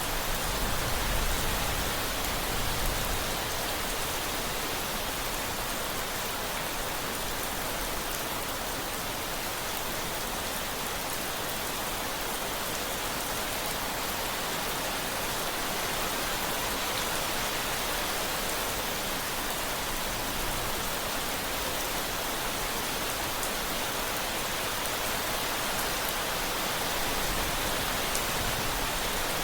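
Steady rain falling: an even, continuous hiss with scattered fine drop ticks.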